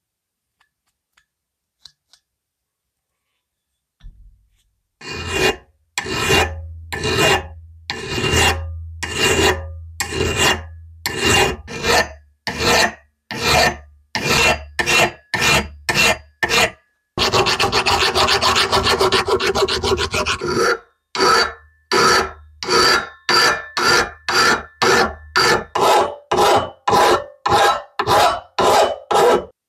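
A metal part being hand-filed, starting about five seconds in with regular rasping strokes roughly one a second. About two-thirds of the way through comes a spell of quick short strokes, then steadier strokes at about two a second. A low steady hum runs beneath most of it.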